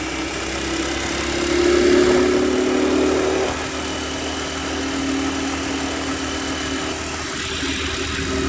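Predator 212 single-cylinder four-stroke engine on a mini bike, running while being ridden. It swells louder about two seconds in, then eases back to a steady run.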